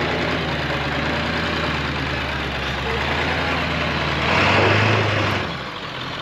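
Off-road vehicle's engine running steadily while crawling over rocks. About four seconds in, a brief burst of throttle makes it louder, then the engine note drops away.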